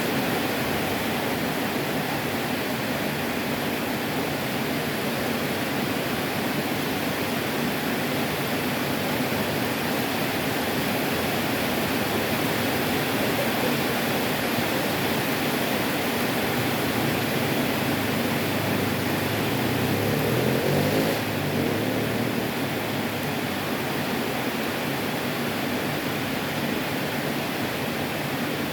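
Heavy tropical rain pouring steadily, a dense even hiss. About twenty seconds in, a low rising hum swells for a few seconds, then drops away suddenly.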